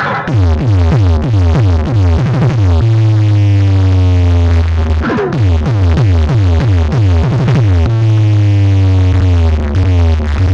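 Loud electronic dance music played through a large PA loudspeaker set. Quick falling synth sweeps run over deep bass, then a long low bass tone glides slowly down. The pattern plays twice.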